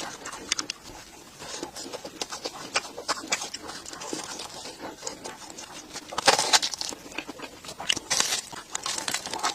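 Close-miked eating sounds: chewing with crunchy crackles and wet mouth clicks, heaviest in two bursts about six and eight seconds in.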